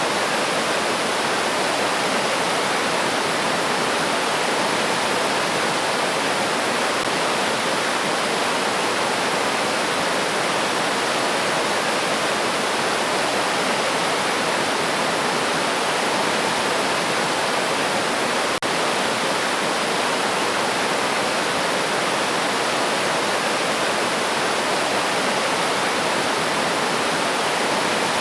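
River water flowing and rushing steadily over stones, a continuous even stream noise.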